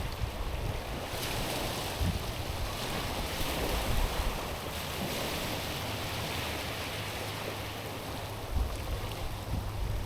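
Small waves washing against a rocky, stony shore: a steady hiss of water that swells from about a second in and again through the middle. A low rumble of wind sits on the microphone beneath it.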